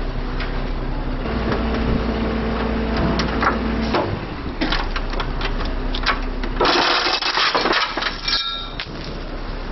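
A recovery wrecker pulls a chain taut on a crashed truck. A steady mechanical hum runs from about one to four seconds in, among metal clanks and knocks. A rushing, scraping burst comes about seven seconds in and a short metal squeal just after.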